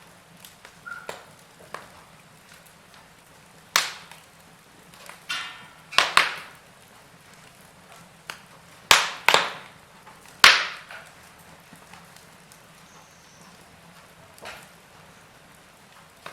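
Wood fire crackling in a fireplace: sharp, irregular pops and snaps from the burning logs, the loudest about four seconds in and several more between six and eleven seconds, over a faint hiss.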